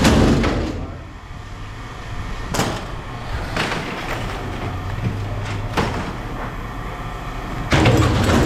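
Scrap metal clanking and rattling as it is handled, with several separate knocks and a longer clatter near the end, over a steady low hum.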